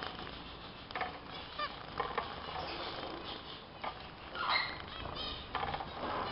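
Small cage finches (zebra, Bengalese and strawberry finches) calling, with short separate chirps and nasal calls scattered irregularly.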